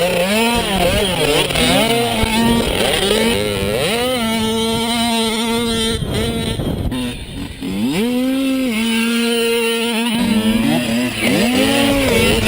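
Mini motorcycle engine revving, climbing in pitch and holding high revs for a second or two at a time, then dropping back and climbing again several times.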